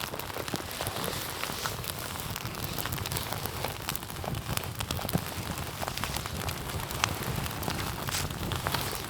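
Campfire burning with a steady low rumble of flames and many sharp crackles and pops from the burning wood.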